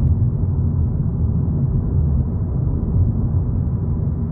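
Steady low rumble of road and engine noise inside a moving 2022 Volkswagen Polo GTI's cabin.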